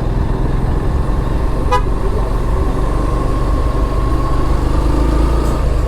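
Steady rumble of a motorcycle engine and wind while riding. A vehicle horn beeps briefly about two seconds in, then a horn tone is held steady for nearly four seconds.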